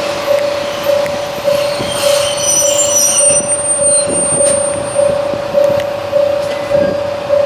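A railway warning bell dings steadily, a little under twice a second. Over it, a Kanto Railway KiHa 2400-series diesel railcar rolls in to stop, with a high brake and wheel squeal from about two seconds in.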